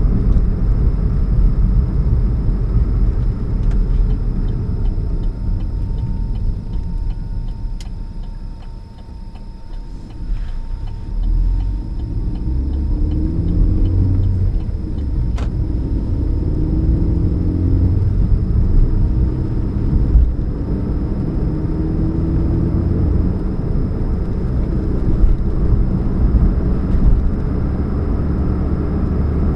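2013 Chevrolet Spark running on the road with a low rumble and hum, which the owner puts down to a leak at the catalytic converter. The sound eases about a third of the way in, then comes back with pitched engine tones that shift up and down as the speed changes.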